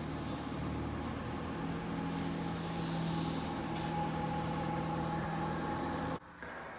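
A motor running steadily with a low hum, which cuts off suddenly near the end.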